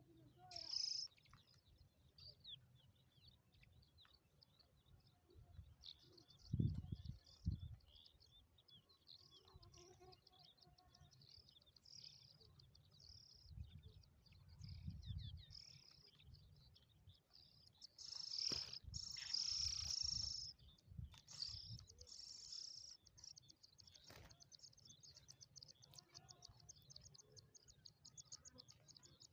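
Small birds chirping, with short high calls repeated on and off, and a fast, even run of high ticks over the last few seconds. Low rumbles come twice, about seven and fifteen seconds in.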